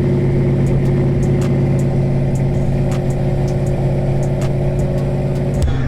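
Car engine idling steadily with a low, even rumble, cutting off abruptly near the end.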